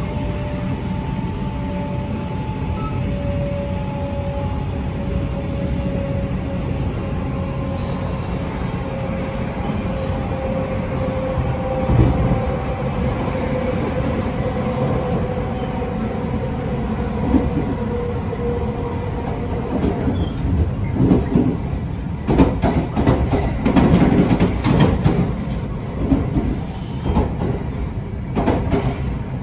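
Cabin running noise of the Shirasagi limited express electric train at speed: a steady rumble with a faint whine that falls slowly in pitch. In the second half come clusters of knocks as the wheels cross rail joints and points.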